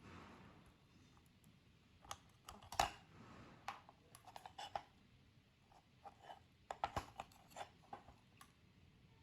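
Irregular light clicks and taps of small hard parts being handled and set down, several sharper knocks about three seconds in and around seven seconds in.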